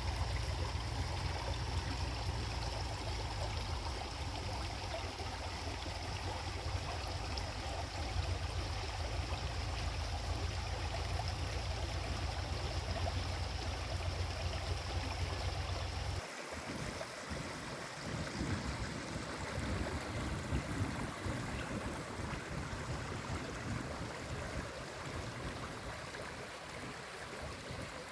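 Steady outdoor rushing noise with a heavy low rumble, which changes abruptly about sixteen seconds in to a thinner, more uneven rushing.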